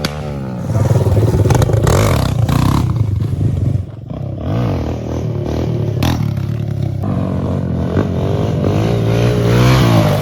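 Pit bike engine revving up and down as the bike is ridden, its pitch rising and falling repeatedly, with a brief drop about four seconds in and a sharp knock around six seconds in.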